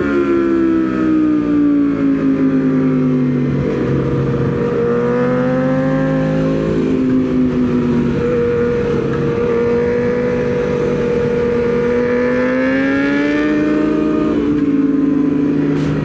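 Aprilia Tuono V4 motorcycle's V4 engine heard on board with wind rush: its pitch falls as it slows through the first few seconds, climbs again, steps down sharply about halfway through at a gear change, holds and rises, then falls once more before pulling up again near the end.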